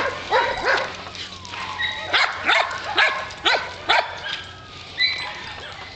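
Several dogs barking and yipping in a quick, uneven series, with a long falling whine about a second and a half in. They are crying for attention at the owner, wanting to be let into the house.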